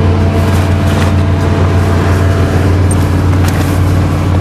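Chevrolet Caprice estate wagon's Oldsmobile 307 V8 with a four-barrel carburettor idling steadily on the choke's fast idle just after a sub-zero cold start; the engine is still too cold to drop to its normal idle.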